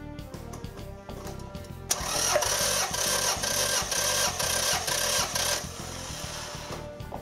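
Starter motor cranking the Toyota Avensis four-cylinder engine for under four seconds, starting about two seconds in, with an even pulsing beat. With spark plugs and ignition coils removed, the engine spins without firing while the tester reads cylinder 4's compression. Background music plays throughout.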